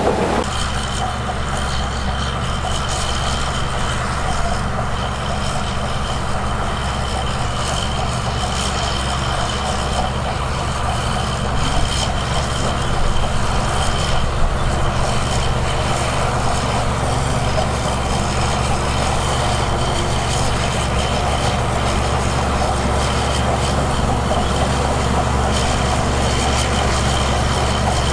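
Heavy diesel engine of earthmoving machinery running steadily under load, with a faint steady high whine over its low drone.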